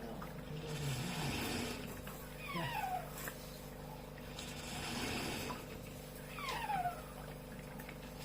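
Coffee machine making a kitten-like mewing squeal: a falling squeal twice, about four seconds apart, over a steady hum, with short bursts of hiss in between.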